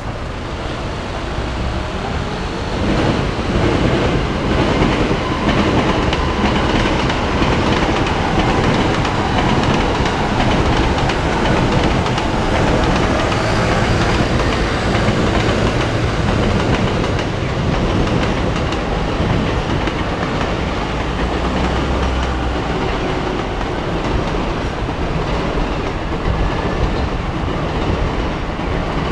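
A train running on the tracks by the station, the rumble of its wheels on the rails building over the first few seconds and then holding steady.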